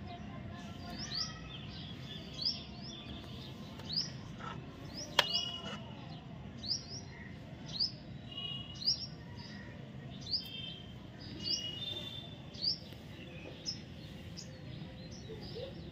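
A bird chirping over and over, short falling chirps about once or twice a second, over a faint steady background noise. One sharp click about five seconds in.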